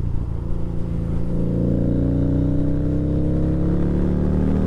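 Harley-Davidson V-Rod's V-twin engine on deceleration, its exhaust note sinking slowly in pitch as the bike slows, picked up by a helmet-mounted microphone with low wind rumble.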